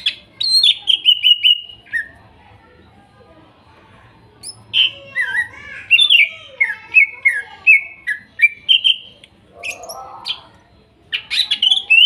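Green leafbird (cucak ijo) singing in three phrases of quick, falling whistled notes. The longest run of about a dozen notes comes in the middle, with shorter phrases at the start and near the end.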